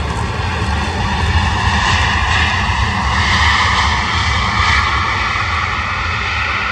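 Boeing 787-8 Dreamliner's jet engines on a landing approach: a steady rumble with a whine that slowly falls in pitch.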